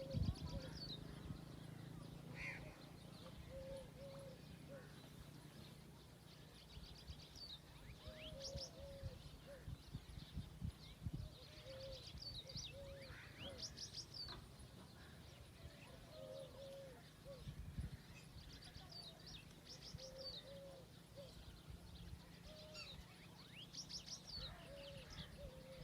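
Birdsong: a dove repeats a short, low cooing phrase about every four seconds, while other birds add higher chirps and trills.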